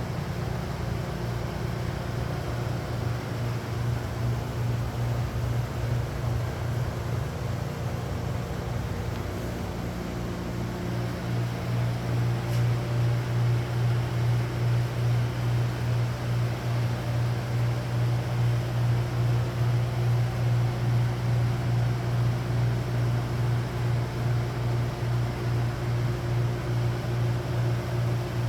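A machine running steadily with a strong low hum. From about ten seconds in it grows louder and pulses evenly, about one and a half times a second.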